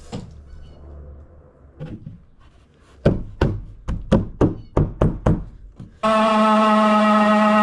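A quick run of about eight knocks, hammer blows on wood, about three a second. Then music starts about six seconds in with a steady held chord.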